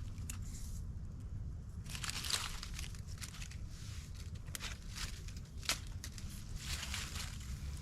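Rustling and crunching with scattered sharp clicks and a few brief swishes, over a low steady rumble.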